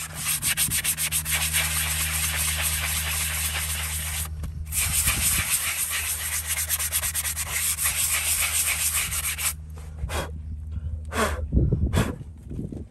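Horse's hoof being filed with an abrasive tool: a dense, continuous scraping with a brief pause about four seconds in. The scraping stops near the end and a few knocks follow.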